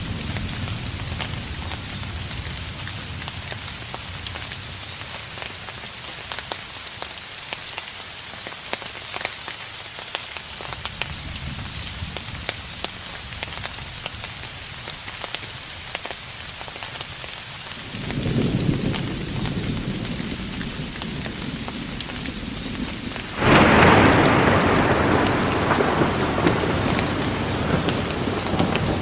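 Steady rain falling, with a distant thunderstorm: about two-thirds of the way in a low thunder rumble swells, and a few seconds later a louder peal of thunder starts suddenly and fades slowly over several seconds.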